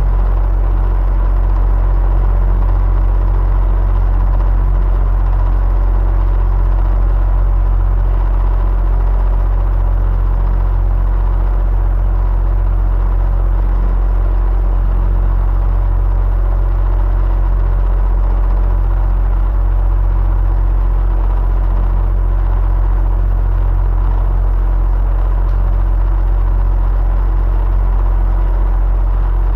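Electric fan running steadily: an even, low hum with a faint steady tone on top, unchanging throughout.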